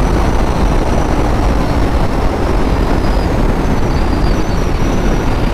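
Bajaj Pulsar NS200 ridden at high speed: a loud, steady rush of wind and road noise over the microphone, with no clear engine note standing out.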